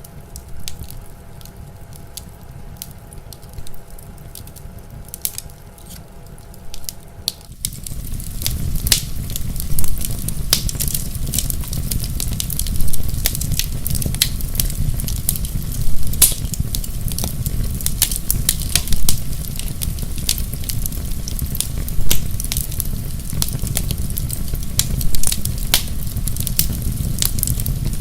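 Wood fire crackling and popping in a fireplace. About seven seconds in it steps up to a louder, fuller sound: a low rumble of flames under dense crackles, with a sharp pop every few seconds.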